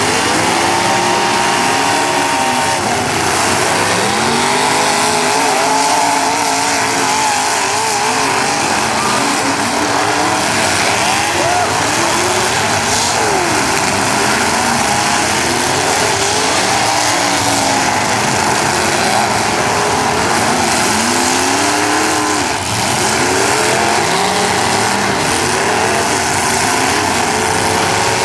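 Several demolition derby cars' engines revving hard at once, their pitches rising and falling over one another in a constant loud din.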